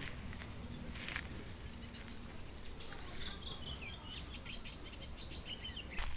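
Small birds chirping: a quick run of short, high, falling chirps from about three seconds in, over a low steady rumble. A faint knock comes about a second in and another near the end.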